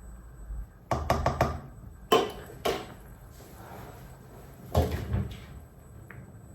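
Kitchen handling sounds of cookware and utensils: a quick run of clicks about a second in, then sharp knocks at about two seconds and again near five seconds.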